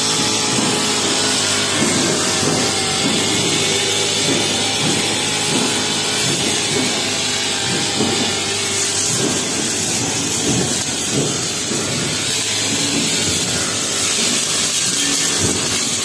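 Honda four-stroke brushcutter engine running steadily at eased throttle while its metal blade cuts through grass, with irregular swishing and rasping as the blade works close to stones.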